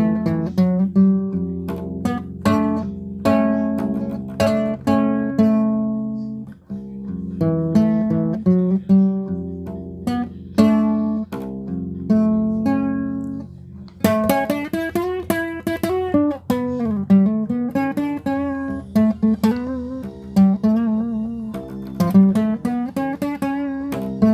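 Guitar music: plucked notes and ringing chords, turning into a quicker run of notes about fourteen seconds in, some of them wavering in pitch.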